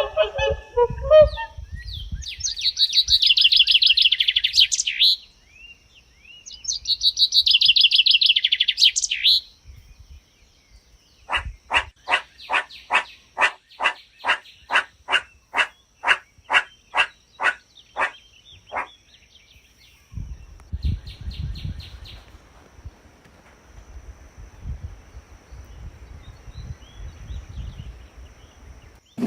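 Wild birds singing: a brief harsh call at the start, two high trilled songs of about three seconds each, then a series of about fifteen clear, evenly spaced notes at roughly two a second, then only faint chirps.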